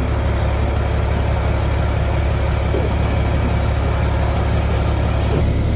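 Monster truck's engine running steadily with a deep, even rumble.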